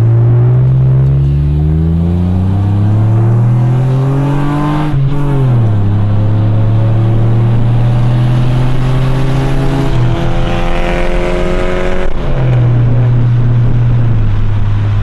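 Honda Accord's engine and exhaust accelerating, the pitch rising for about five seconds and then dropping at a gear change, after which it runs at a fairly steady pitch with another break about twelve seconds in.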